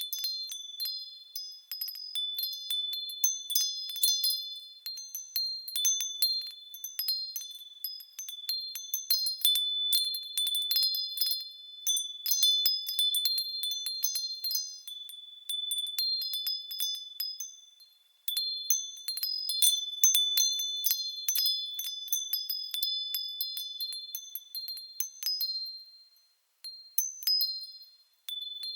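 Japanese fūrin wind chimes ringing in irregular clusters of high, clear tones as they sway. The ringing fades briefly about eighteen seconds in and again near the end, then picks up again.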